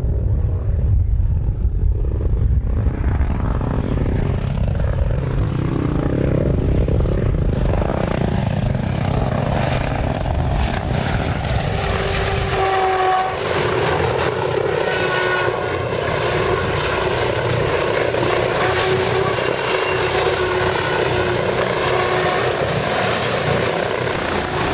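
Helicopter engine and rotor noise, running continuously. For about the first half it is a deep rumble; about halfway through the rumble drops away, and a higher, hissing engine sound with several steady whining tones takes over.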